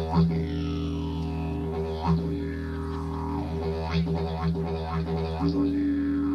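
Didgeridoo playing a continuous low drone. Its overtones sweep up and down, with strong rhythmic accents roughly every two seconds.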